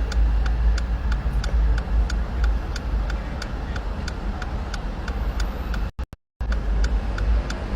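Steady low rumble of road traffic with a fast, even ticking, about four ticks a second. The sound drops out briefly about six seconds in.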